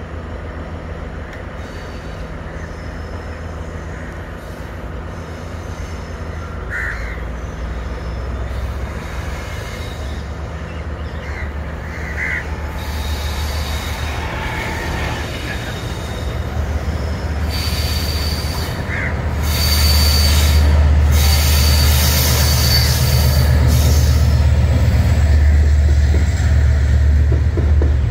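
Diesel-hauled passenger train approaching round a curve and passing close by, its low engine rumble growing steadily louder. From about two-thirds in, the wheels squeal on the curve as the loudest part arrives.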